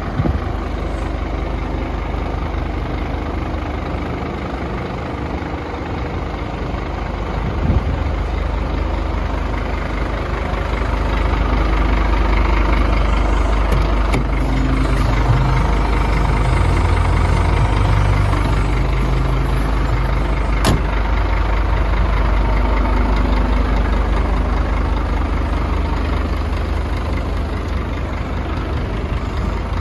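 Scania P310 truck's diesel engine idling, a steady low drone that grows louder about a third of the way in, with a few sharp clicks along the way.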